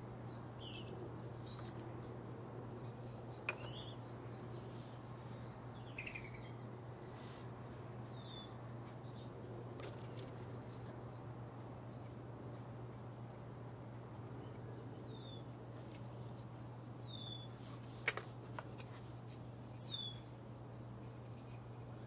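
Backyard songbirds giving short, downward-slurred chirps, one every few seconds, over a steady low hum. A few sharp clicks sound in between, the loudest about eighteen seconds in.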